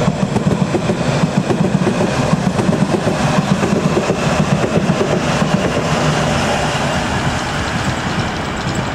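London Underground S7 stock District line train running loudly along the platform, with continuous wheel-on-rail and traction noise that eases slightly near the end as it pulls away.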